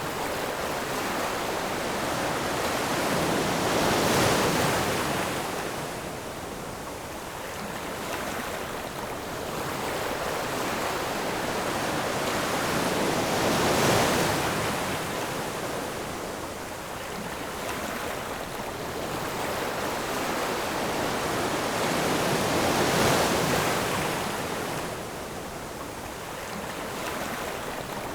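Ocean surf: a steady wash of waves, with three waves breaking and surging louder, about one every nine or ten seconds.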